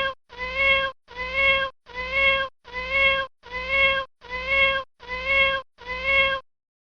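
A kitten meowing: the same short meow about eight times at an even pace, roughly one every second, stopping about six seconds in.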